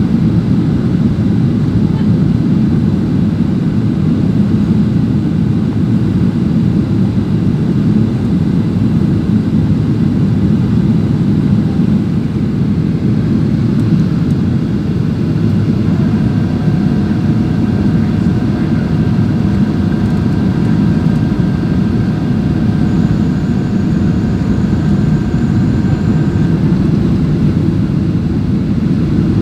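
Steady low roar of an airliner's engines and airflow heard inside the passenger cabin in flight. About halfway through, a few faint steady tones sit on top of it for around ten seconds, then stop.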